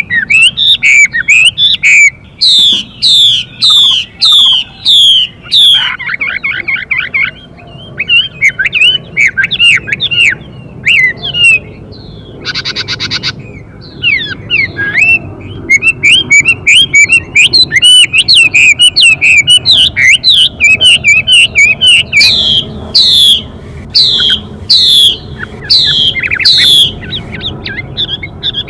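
Chinese hwamei (Garrulax canorus) pair: the male singing a loud, varied song of fast repeated whistled notes that keep changing phrase, with the female's harsh, buzzy 'xùy' calls mixed in.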